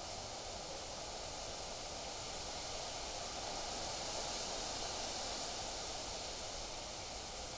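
Wind blowing steadily through trees, a continuous rustling hiss of leaves that swells a little midway.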